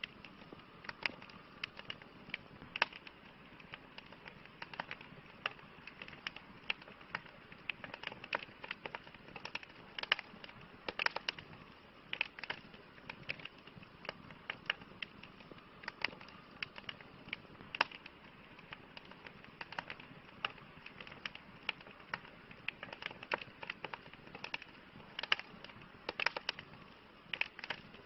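Campfire crackling: irregular sharp pops and snaps, several a second, over a soft steady hiss of burning wood.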